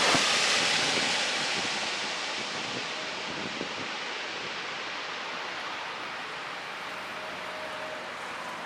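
Jet aircraft noise, a broad rush that fades over the first few seconds, its higher hiss dying away first, then settles into a steady low rumble.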